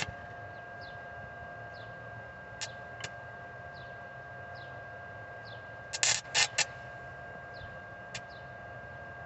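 A few sharp clicks, then three loud knocks close together about six seconds in, over a steady electrical hum, with faint high chirps repeating about once a second.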